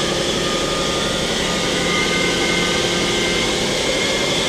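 The spindle of a 2001 Mori Seiki MT2000SZ CNC mill-turn center running at about 2000 RPM, a steady machine hum with several faint whining tones. A higher whine comes in about two seconds in as the speed is stepped up toward 3000 RPM.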